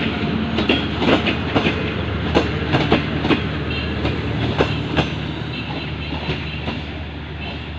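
Subak Raftar railcar running on the track: its wheels click irregularly over rail joints above a steady low engine drone, and the sound grows quieter toward the end.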